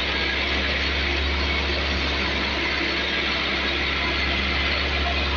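Massey Ferguson 385 tractor's diesel engine running steadily under load, a deep hum with mechanical clatter over it and no change in pitch or level.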